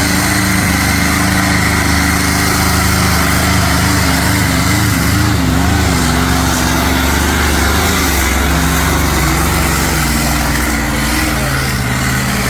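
Pulling tractor's engine running loud and steady under load, its pitch wavering briefly mid-way and dropping in steps over the last few seconds.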